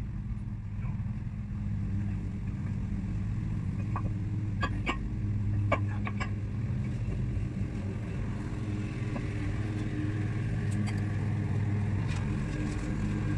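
A motor vehicle engine running steadily at an even pitch, with a few sharp clicks about four to six seconds in.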